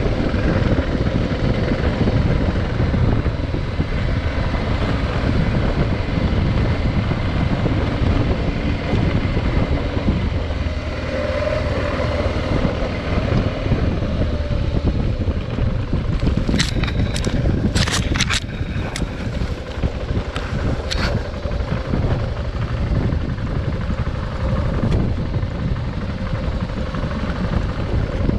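Adventure motorcycle running steadily while riding, under heavy wind noise on the microphone. A quick cluster of sharp clicks or knocks comes about two-thirds of the way through.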